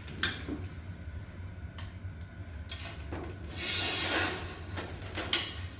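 Handling noise from fitting a snare drum's metal rim over its new head: scattered small metal clicks and knocks, a rubbing swish lasting most of a second about three and a half seconds in, and a sharp click near the end, over a steady low hum.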